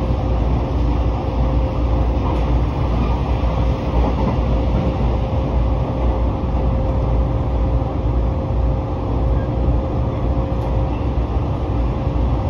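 Running noise of an electric commuter train heard from inside the passenger car: a steady low rumble of wheels on rail, with a faint steady hum that fades out near the end.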